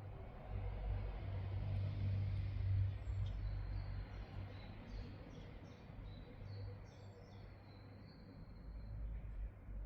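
A steady low hum, loudest in the first few seconds, with a bird chirping in short high notes through the middle and later part.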